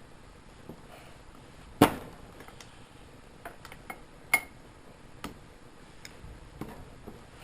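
Metal hand tools knocking and clanking against engine parts in irregular strikes, the loudest about two seconds in and another after about four seconds with a short metallic ring.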